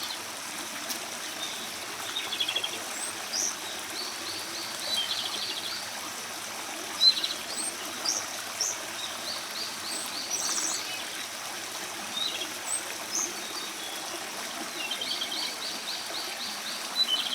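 Japanese robin (komadori) singing: a phrase with a rapid rattling trill about every five seconds, with single high notes between. Under it runs a steady rush of running water.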